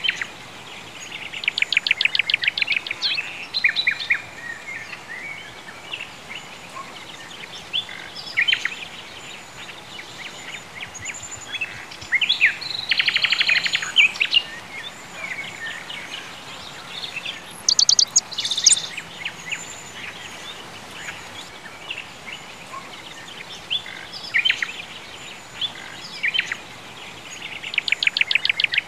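Songbirds singing: rapid trilled phrases come back several times, near the start, about halfway and at the end, with scattered short chirps between them over a faint steady hiss.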